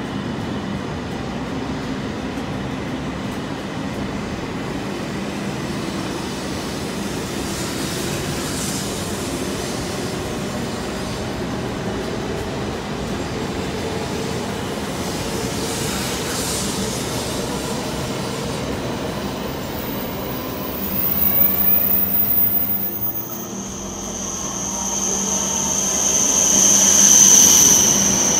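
E7 series Shinkansen train rolling slowly past the platform, with a steady rumble and hum. About three-quarters of the way through a high-pitched squeal comes in and grows louder toward the end.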